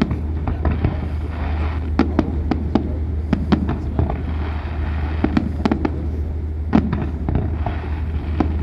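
Fireworks going off in an irregular run of sharp bangs and crackles, several a second, over a steady low rumble.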